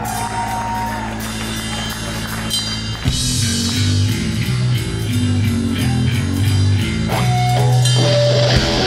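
Rock music with electric guitar, bass and drums; the bass line starts moving about three seconds in.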